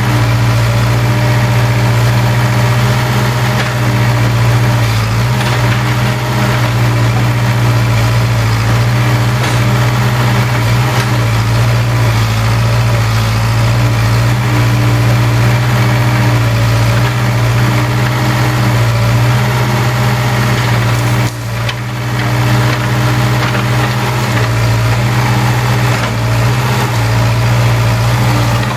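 Case 580K backhoe loader's diesel engine running steadily, with a short drop in level about two-thirds of the way through.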